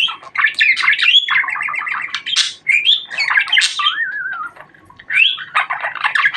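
Budgerigar chattering and warbling: rapid chirps, squeaks and wavering whistles, with a short lull about four and a half seconds in before it starts up again.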